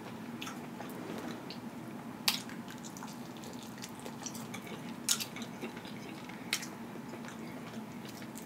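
Close-up eating sounds of a sauce-dipped chicken drumstick being bitten and chewed: soft wet mouth sounds with a few sharp smacks, the loudest about two seconds in, and again about five and six and a half seconds in.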